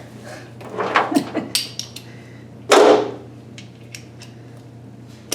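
Hand tools clinking and knocking on metal while bolts are worked on with a ratchet and extension, over a steady low hum, with a louder rushing burst about three seconds in.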